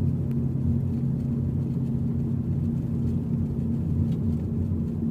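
Car driving steadily along a smooth road: an even engine hum with a low drone and road rumble, heard from inside the cabin.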